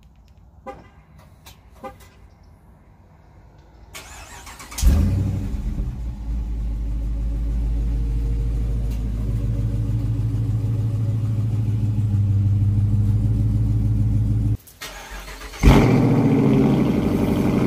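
Dodge Charger R/T's 5.7-litre HEMI V8 cold-starting twice. After a few faint clicks it catches about five seconds in with a flare and settles into a steady fast idle through the stock exhaust; after a short break it starts again with the mid mufflers deleted, flaring and then idling.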